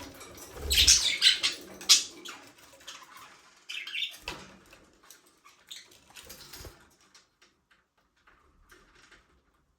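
Budgerigars chirping and chattering with a few low thumps and flutters, busiest in the first two seconds, then thinning to scattered soft ticks and scratches before falling quiet near the end.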